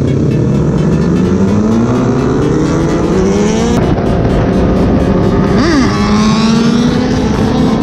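Big-bike motorcycle engine accelerating, its pitch rising for several seconds and then dropping sharply at a gear change about halfway through. A quick rev blip follows, then the engine holds a steady pitch.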